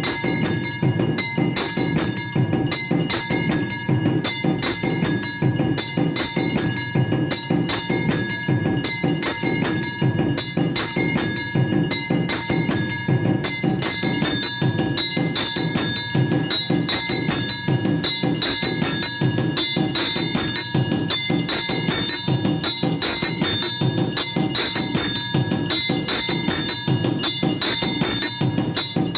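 Temple bells ringing continuously over fast, steady drum and percussion strikes, the din of a Hindu evening aarti.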